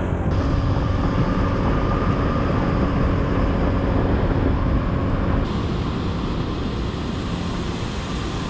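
A motorcycle riding along the road, its engine running under a steady rush of road and wind noise. The noise changes abruptly twice, about a third of a second in and again past the middle.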